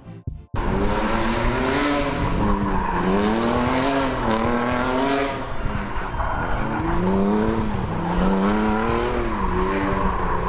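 Drift car engine revving up and down repeatedly as the throttle is worked through a slide, with tyres screeching.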